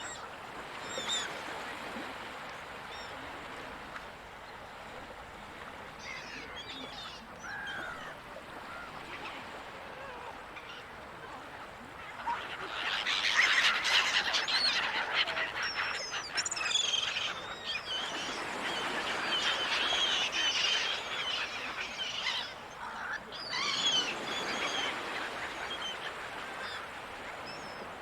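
Seagulls calling over a steady wash of ocean noise: scattered calls at first, then a dense, louder chorus of many gulls calling at once from about halfway in until near the end.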